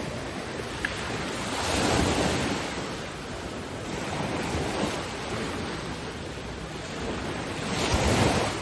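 Ocean waves washing onto a shore: a steady rush of surf that swells as a wave breaks about two seconds in, and again, louder, near the end.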